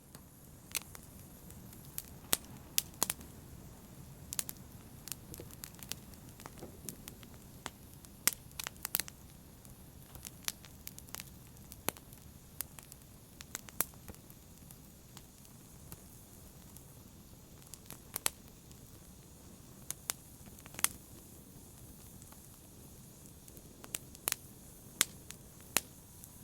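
Wood fire crackling in a fireplace: irregular sharp pops and snaps, several a second at times, over a low steady rumble of burning.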